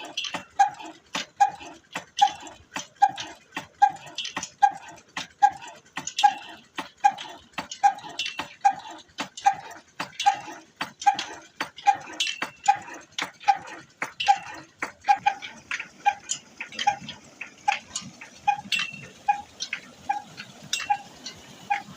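Old Ruston engine running slowly and steadily. A regular beat comes a little more than once a second, with sharper ticks between the beats.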